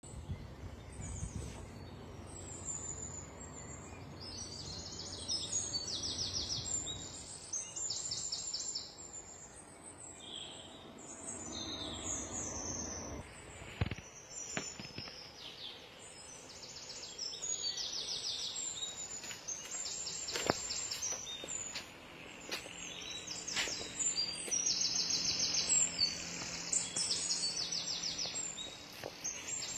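Songbirds singing, high rapid trills repeating every second or two, over a low rumble during the first half. A few sharp knocks come around the middle, and a faint low hum rises under the birdsong near the end.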